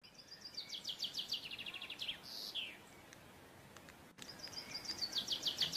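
A songbird singing the same phrase twice with a pause between: a fast run of high, clipped notes that ends in a short falling flourish.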